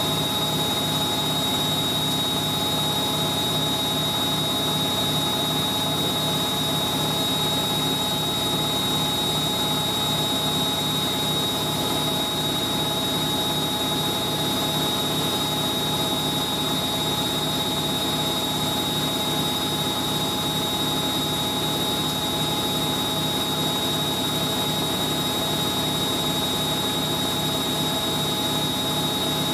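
Hoover A3060 Electronic 1100 washing machine spinning at high speed, drum and motor running steadily with a high whine over a fast, even hum.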